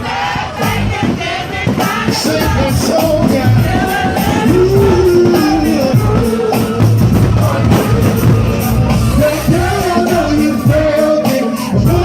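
Live concert music with a singer's voice carrying a melody over the band's backing, loud and steady.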